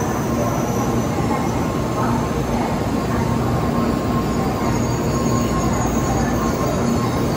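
Tokaido Shinkansen train running alongside a station platform: a steady rumble of motors and wheels with a faint even hum.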